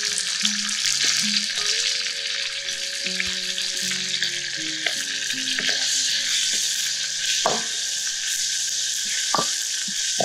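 Raw meat pieces sizzling steadily in hot oil in a steel wok while being stirred with a metal ladle. The ladle scrapes and clacks sharply against the wok twice in the second half.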